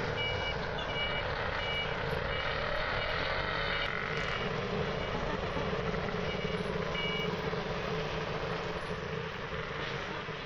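Steady background street and vehicle noise, with a short high electronic beep repeating about twice a second through the first four seconds and again briefly near the seventh second.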